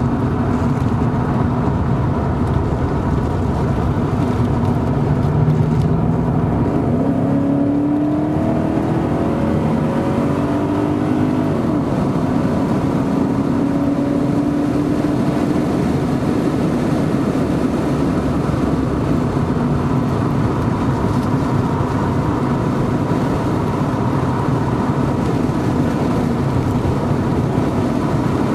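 Porsche 928's V8 engine heard from inside the cabin, pulling hard at track speed with wind and tyre noise. The engine pitch climbs several seconds in as the car accelerates, then holds.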